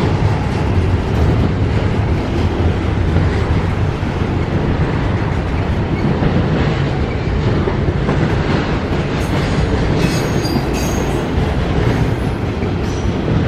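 Double-stack intermodal freight train rolling past close by: a steady, loud rumble of well-car wheels on the rails, with brief high-pitched wheel squeals about ten seconds in.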